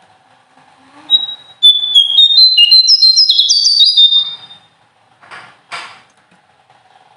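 Small songbird singing a fast burst of clear, whistled notes that step up and down in pitch, lasting about three seconds. Two short harsh notes follow near the end.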